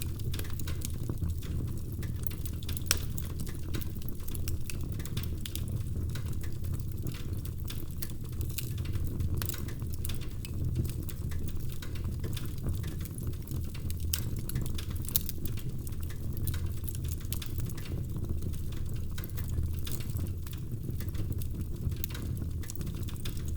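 Wood fire in a fireplace crackling, with a steady stream of small snaps and the occasional louder pop over a low rumble of flame.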